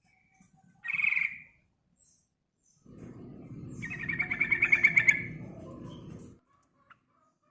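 Yellow-vented bulbul calling: a short chattering call about a second in, then a longer, rapidly pulsed rattling call from about three seconds in, lasting some three seconds. A low rumble runs under the longer call.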